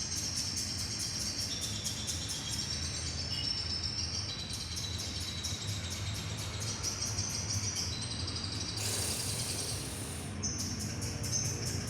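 Lovebird singing a long, fast chattering trill of high, rapidly repeated chirps, which breaks off briefly about nine seconds in.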